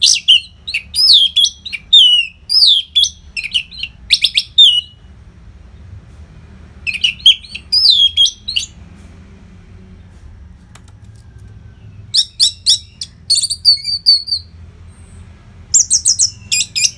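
Orange-headed thrush (anis merah) singing loud, rapid, high-pitched song phrases in four groups with short pauses between them. A faint low hum runs underneath.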